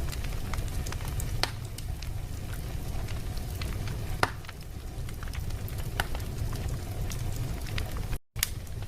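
Wood fire burning in a fireplace: steady crackling over a low rumble, with a few sharper pops. The sound cuts out for an instant near the end.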